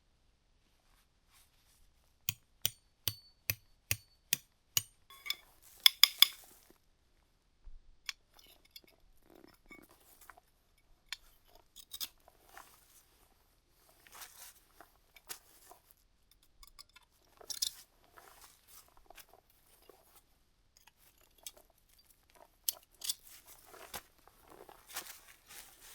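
A run of about seven sharp, evenly spaced clicks, roughly three a second. A loud crunch follows about six seconds in, then scattered crunching and rustling for the rest.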